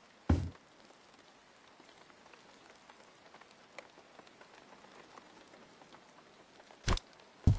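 Faint steady patter like light rain, broken by three heavy thuds: one just after the start and two close together near the end.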